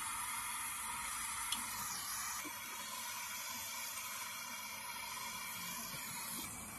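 Brazing torch flame hissing steadily while heating the refrigerant pipe joints on a refrigerator compressor to unsolder them, with one sharp tick about a second and a half in.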